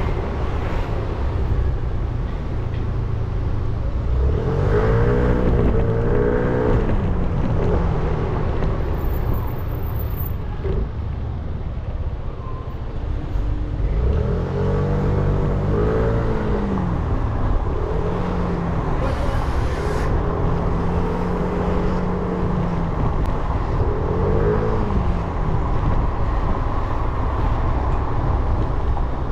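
A 300 cc motorcycle engine riding through traffic, its pitch rising and falling several times as it accelerates and slows, over a steady low rumble.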